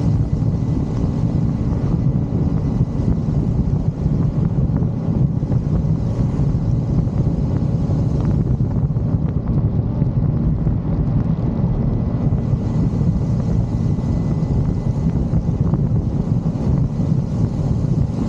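Motorcycle riding at steady speed: a low, even engine and road rumble with wind buffeting the microphone.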